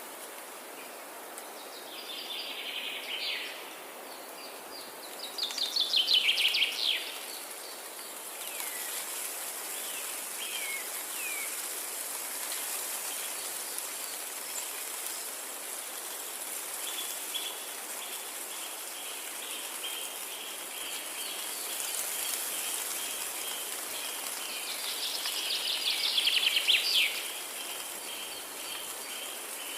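Forest ambience: songbirds singing over a steady rushing hiss. Two loud, fast trilled phrases come about 6 s and 26 s in, and a run of quick, evenly repeated chirps starts about halfway through.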